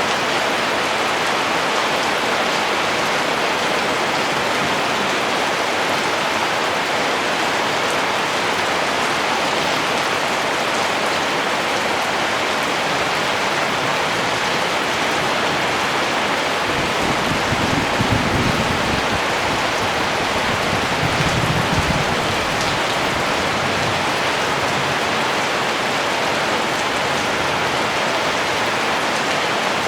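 Steady rain falling, an even hiss of many drops. About halfway through, a low rumble rises under the rain for several seconds, then fades.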